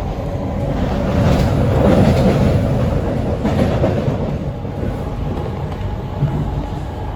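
C151B metro train running along the track, heard from inside the carriage: a steady rumble of wheels on rail and running gear that swells a little about a second in and eases off after about three seconds.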